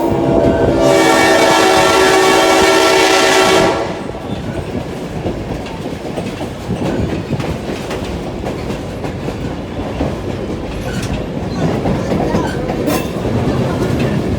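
Train horn sounding one long, loud chord that cuts off about four seconds in, followed by the steady rumble and clatter of a railroad passenger car rolling along the track.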